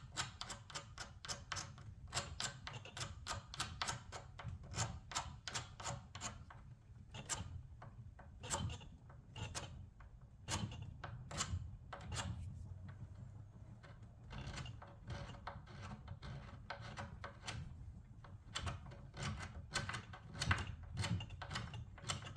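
Hand strokes scraping old paint and finish off a surface: short, sharp scrapes, about four a second at first, slowing to roughly one a second in the middle, then coming in quick runs again toward the end.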